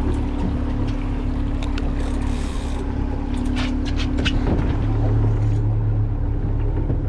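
Boat motor running steadily at trolling speed, a constant low drone with a held hum, with a few sharp clicks and knocks a couple of seconds in.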